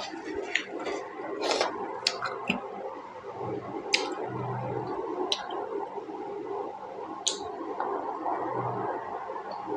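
Chewing and mouth sounds from eating juicy pork momos: a steady wet chewing texture with several sharp smacks, most of them in the first half.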